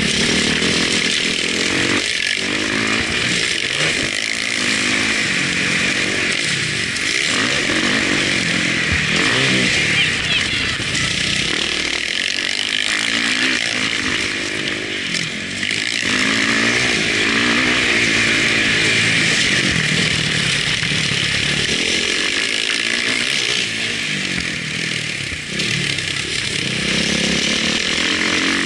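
Motocross bike engine picked up by a GoPro on the bike or rider, revving up and dropping again and again as the rider accelerates, shifts and backs off around the track, over a steady hiss.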